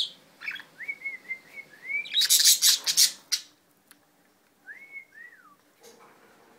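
Budgerigars chirping and whistling. Short whistled notes come first, then a burst of loud, harsh chirps about two seconds in, and a whistle that rises and falls near the five-second mark.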